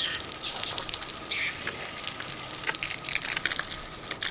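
Water gushing out of a pressure washer's spray gun held open, with hose water flowing through the machine before its engine is started, so that it flows out rather than back-spraying. A steady rush with irregular spattering throughout.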